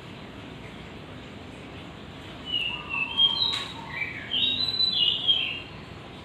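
Zebra dove (perkutut) calling: a run of short whistled notes starting about two and a half seconds in and lasting about three seconds, with a sharp click partway through.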